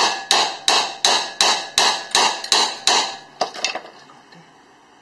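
Rapid, evenly spaced hammer blows on metal, about three a second, each ringing briefly, ending with two lighter taps just under four seconds in. The hammering is an attempt to knock a stuck drive axle loose from the Honda Civic so that it pops free.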